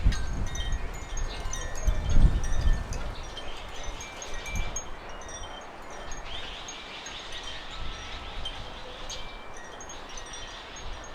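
Wind gusting on the microphone for the first few seconds, then easing, under many short high-pitched ringing notes that keep going throughout.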